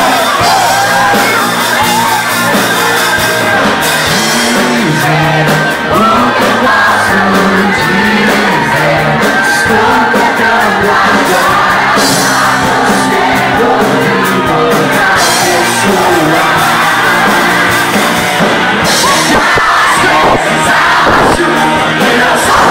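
Loud music with many voices singing and shouting along, crowd-like, without a break.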